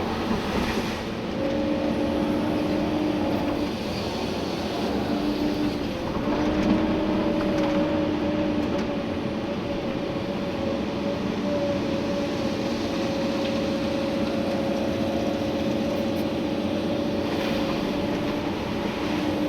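Komatsu PC290-11 excavator working, its engine and hydraulics running under load as heard from inside the cab, with a steady whine that sets in about a second and a half in and breaks off briefly twice before holding.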